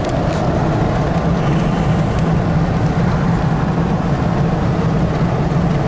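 Steady engine drone and road noise heard inside the cab of a truck on the move, with a low hum running underneath.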